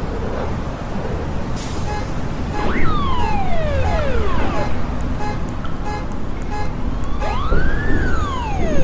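Sound-design noise collage: a loud, steady traffic-like rumble with siren-like sliding tones. About three seconds in, a tone leaps up and slides down, followed by more falling tones. Near the end another rises and falls in an arc.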